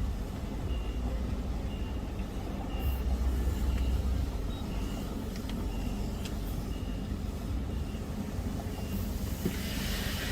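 Car engine idling, with short high-pitched beeps repeating about once a second from an electronic beeper, and a few faint clicks.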